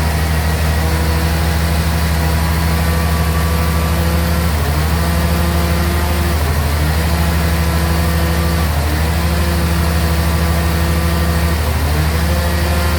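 Sawmill bandsaw and its drive engine running steadily under load, with a strong low hum. Its pitch sags briefly four times, every two to three seconds.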